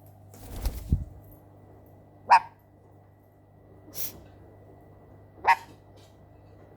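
Dog barking: two short, sharp single barks about three seconds apart, with a fainter, higher call between them and some low thumps of movement in the first second.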